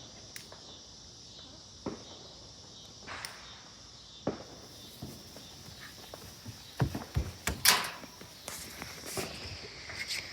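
Footsteps and scattered knocks over a steady chirring of night insects, with a cluster of thumps and a brief, louder rush of noise about three quarters of the way through.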